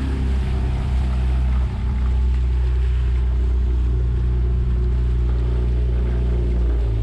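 Boat motor running steadily underway: a loud, low, even-pitched hum that drops away at the very end.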